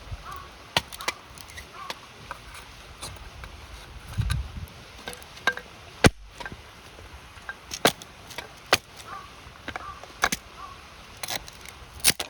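Wood campfire crackling, with sharp irregular pops and snaps of burning wood, over the steady rush of a river.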